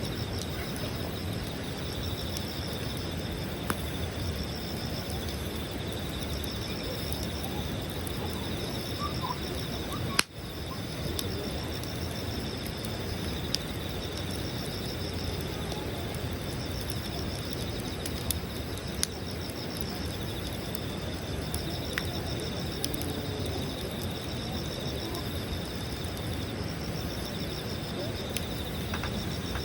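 Campfire crackling, with a sharp pop every few seconds, over the steady chirping trill of insects.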